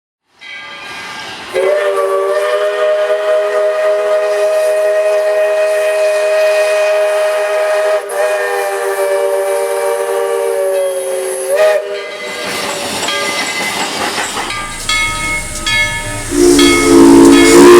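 Steam locomotive whistle blowing one long steady chord of several notes for about ten seconds over hissing steam, then cutting off. After it come steam hissing and a few short whistle toots, and a louder whistle starts near the end.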